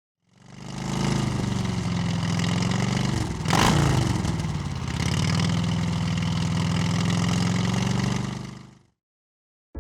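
Motorcycle engine running at a steady speed, fading in and fading out again, with a brief louder whoosh about three and a half seconds in.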